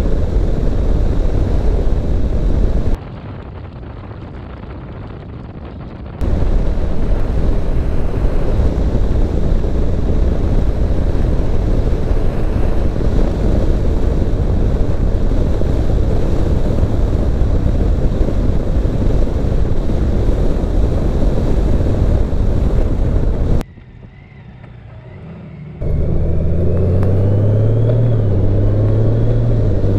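Motorcycle under way: a steady rush of wind and road noise, with the engine's steady hum coming through in the last few seconds. The noise drops sharply twice, for about three seconds and then for about two seconds, before coming back.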